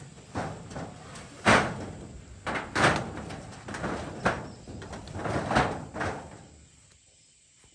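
A run of irregular knocks and bangs, about nine over six seconds, the loudest about one and a half seconds in, then they stop.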